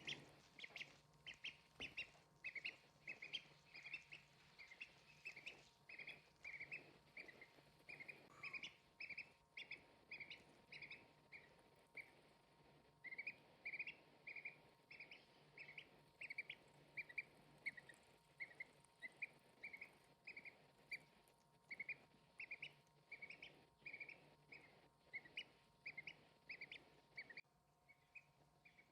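A duck making short, soft calls over and over, about two a second, faint, with a brief pause near the end.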